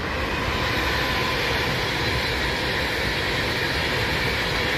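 Class 390 Pendolino electric train running through a station at speed: a steady rush of wheels on rail and air, with a faint steady whine.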